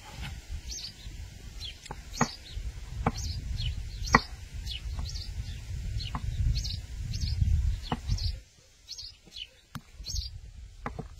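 A small bird chirping over and over, short high chirps about twice a second. A few sharp knocks and a low rumble run underneath.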